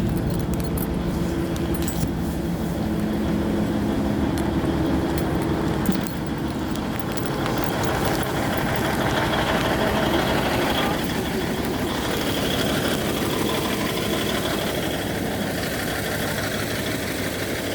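Diesel engine of the CP railcar UDD 0467 running steadily, heard from on board the train.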